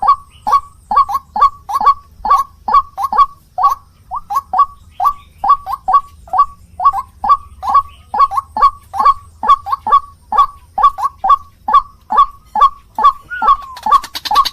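White-breasted waterhen (ruak-ruak) calling: a fast, even run of short, harsh notes at about three a second, with one sliding note near the end.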